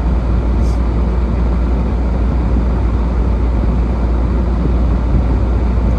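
Steady low rumble of a car driving, its engine and tyre noise running evenly without change.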